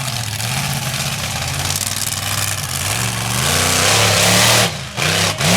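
Monster truck engine revving hard, its pitch climbing about three seconds in to its loudest, then dropping off twice and being blipped back up near the end.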